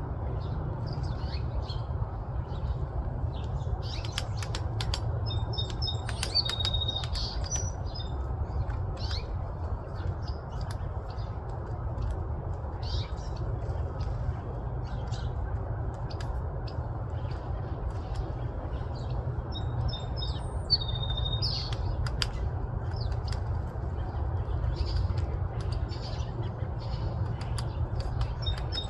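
Birds calling with short, high chirps and squeaks, coming in clusters, with a few sharp taps among them, over a steady low rumble.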